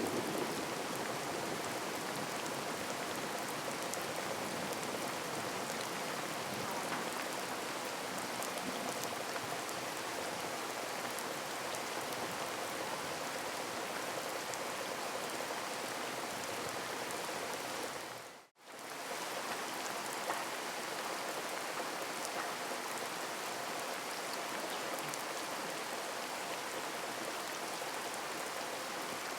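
Heavy rain falling steadily in a dense, even hiss. It cuts out abruptly for a split second about eighteen seconds in, then resumes as before.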